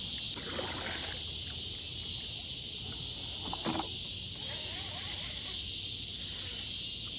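Steady, high-pitched evening chorus of crickets and other insects, keeping up an unbroken wall of sound.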